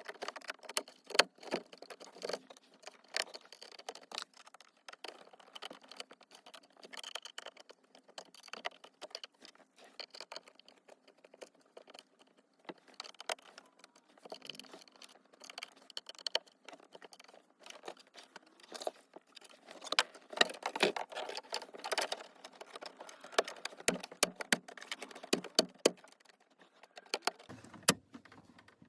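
Irregular clicks, taps and small rattles of the BMW F87 M2's plastic cup holder trim being handled and worked on by hand. The clicks come thickest about two-thirds of the way through.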